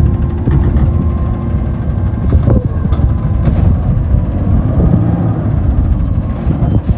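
Garbage truck engine running loud and steady, with a few short knocks.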